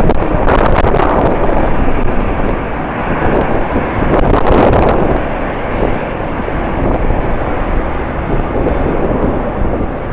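Strong wind buffeting the microphone in uneven gusts, mixed with the engine noise of a jet airliner.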